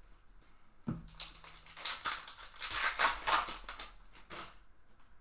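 A low thump about a second in, then a trading card pack's plastic wrapper crinkling in a quick run of crackles for about three and a half seconds.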